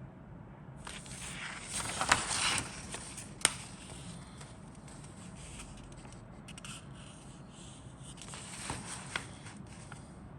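Plastic packaging crinkling and parts scraping as the contents of a plastic model kit box are handled, with two sharp clicks in the first few seconds and another spell of rustling near the end.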